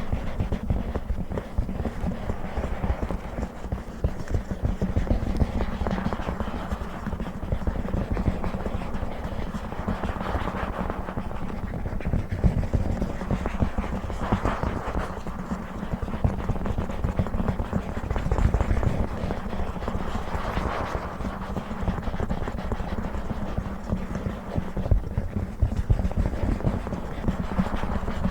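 Close-miked ASMR handling of a book: fast, dense fingertip tapping and scratching on its cover and pages, going on without a break.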